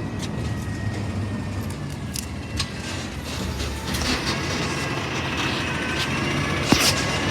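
Heavy garbage truck's diesel engine running steadily, with a faint whine that drifts slowly in pitch and scattered clicks and rattles. A sharp knock comes near the end.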